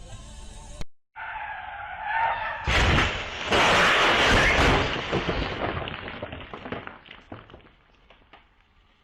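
A snatch of music cuts off, then tyres squeal for a second or so before a car collision: a sudden loud crash of impact and breaking parts, followed by scattered clatters of debris that fade over a few seconds.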